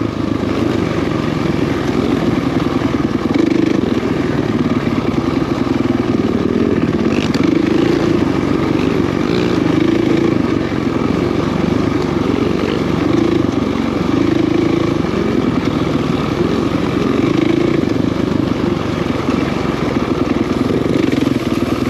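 Dirt bike engine running at low, fairly steady revs, the rider working the clutch to keep grip on a slow trail section.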